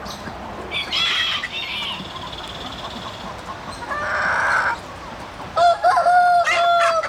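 Chickens calling, with a rooster crowing in one long held call near the end.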